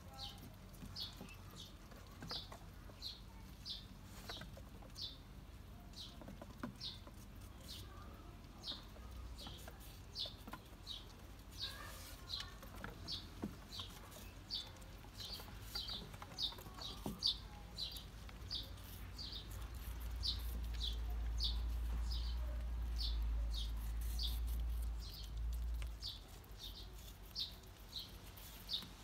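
A small bird calling the same short, high note over and over, about two a second, steady throughout. A low rumble joins it from about two-thirds of the way in until near the end.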